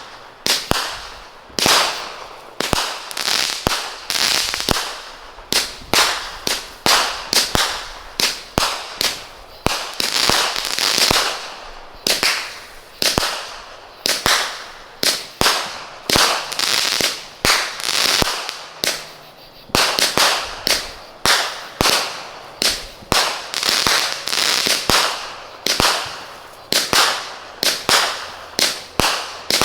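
A 49-shot Brothers "Bad Hair Day" consumer fireworks cake firing shot after shot, one to two sharp reports a second, each followed by a fading hiss as the shells break in the air.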